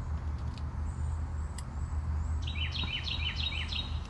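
A bird sings a quick run of about eight short chirps in the second half, over a steady low hum, with a few light clicks in the first two seconds.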